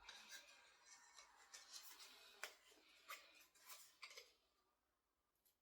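Faint clicks and light rustling of small decoration pieces being handled and fitted together, stopping about four seconds in.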